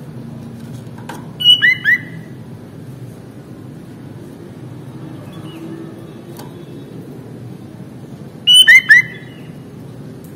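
Sooty-headed bulbul (kutilang) calling: two short, loud phrases about seven seconds apart, each a quick run of three whistled notes, the last two dropping in pitch. A steady low hum runs underneath.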